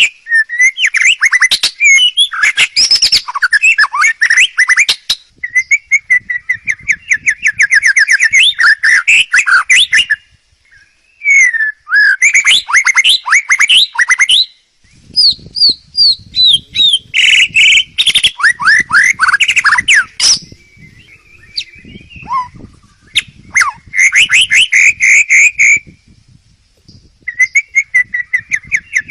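A songbird singing a loud, varied song of rapid trills, repeated notes and whistled glides, in phrases broken by short pauses.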